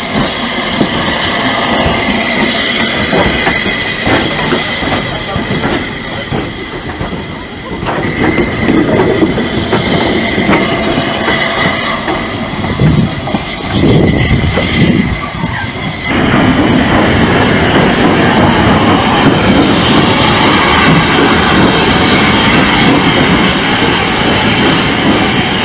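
Steam-hauled heritage train running along the track, with rumbling wheel and rail noise and a thin, steady wheel squeal through the first half. The noise steps up suddenly about two-thirds of the way through and stays louder.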